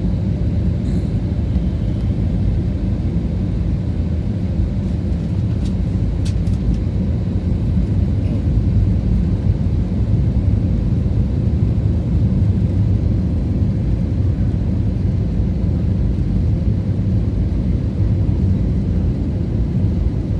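Airliner cabin noise during the landing approach: a steady low rumble of engines and airflow, with a few faint ticks about six seconds in.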